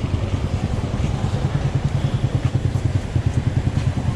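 Low, steady rumble of street traffic, vehicle engines running nearby, fluttering quickly in level.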